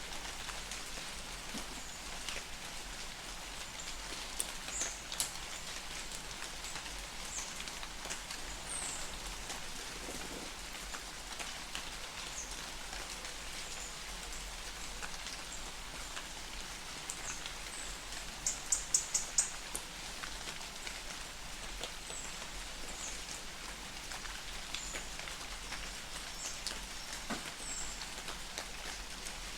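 Light rain falling in a forest, a steady even patter, with scattered high bird chirps. A quick run of about five sharp chirps, the loudest sound, comes about two-thirds of the way through.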